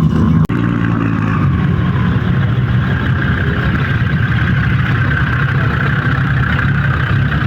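Car engine running steadily at low revs, with a brief dropout about half a second in.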